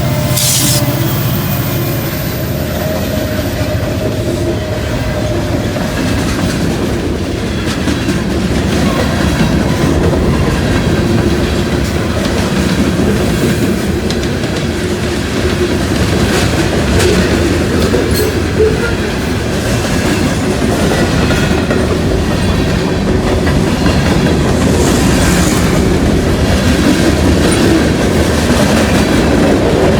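A train rolling past, its wheels clicking over the rail joints over a steady rumble. A brief high hiss sounds just after the start.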